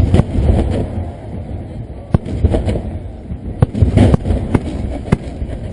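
Fireworks finale barrage: aerial shells bursting in quick succession, sharp cracks coming in clusters over a continuous low booming rumble.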